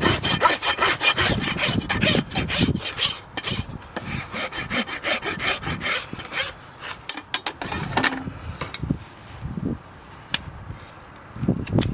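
Farrier's rasp filing a horse's hoof in quick, repeated scraping strokes. The strokes stop about eight seconds in and start again near the end.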